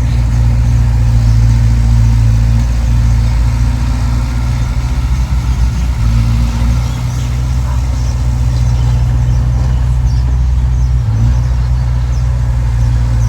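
Diesel engine of heavy earthmoving machinery running steadily with a low drone, which wavers briefly about halfway through.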